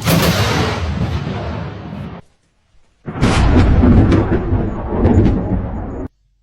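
Two close thunderclaps from lightning strikes, each starting as a sudden sharp crack that rolls off into rumbling. The first fades over about two seconds and cuts off; the second starts about three seconds in, with a few sharp crackles in its rumble, and cuts off after about three seconds.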